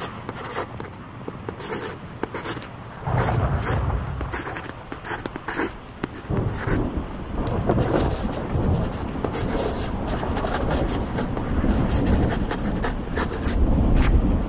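Graphite pencil scratching and rubbing on paper in quick repeated strokes as a drawing is shaded. A deep low rumble comes in about three seconds in and continues under the strokes.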